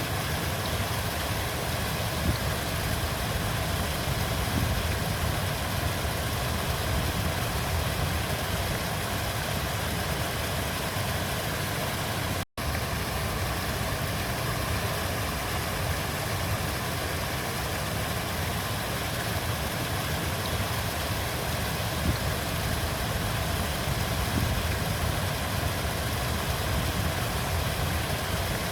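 River water flowing in a steady rush, heaviest in its low rumble. The sound cuts out for an instant about twelve seconds in.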